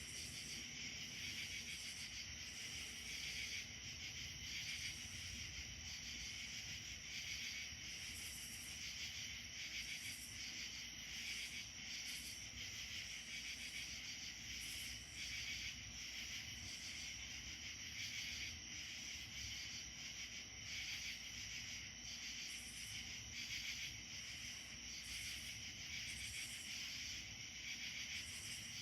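A continuous chorus of insects, a steady high-pitched trilling and buzzing with many callers overlapping, over a faint low rumble.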